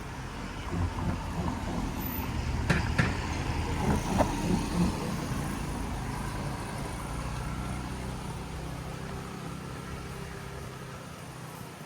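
A motor vehicle passing close by: its low engine rumble swells over the first few seconds, with a few sharp knocks, then slowly fades away.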